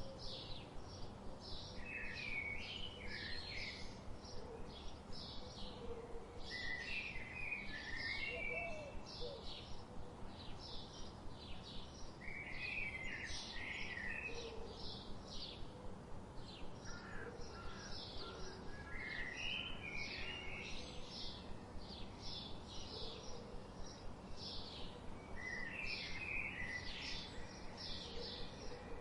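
Songbirds singing: a steady run of short high notes, about three a second, with a lower warbling phrase roughly every five seconds.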